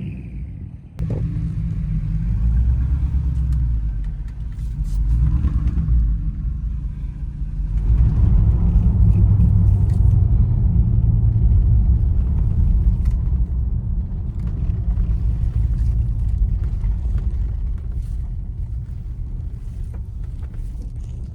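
A Porsche's engine running with a steady low rumble. It briefly dips about a second in and runs louder from about eight seconds in.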